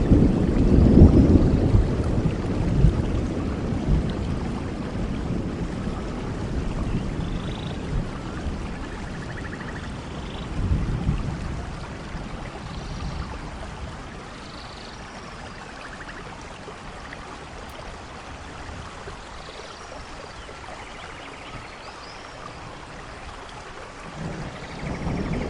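Steady rainfall with a long roll of thunder that is loudest at the start and dies away over the first dozen seconds or so. Another low rumble of thunder begins near the end.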